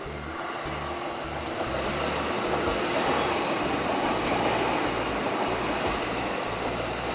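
An electric train on the JR Ome Line running past, its running noise growing to its loudest in the middle and easing slightly near the end.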